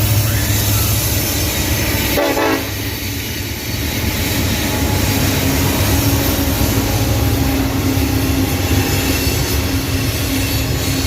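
Norfolk Southern diesel-hauled train rolling past with a steady loud rumble. The locomotive horn gives one short blast about two seconds in, then a steady hum rides over the rolling train.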